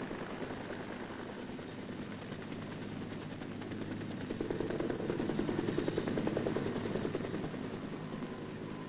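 UH-1A armed helicopter firing its machine guns in rapid bursts over the sound of its rotor and engine, the firing growing louder about four seconds in and easing near the end.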